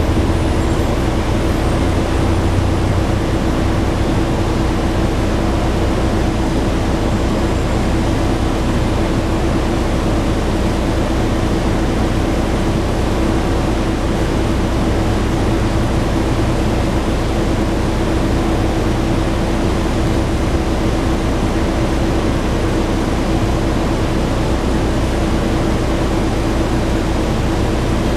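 Scania N113 bus heard from inside while under way: steady engine and road noise with a whine that holds one pitch.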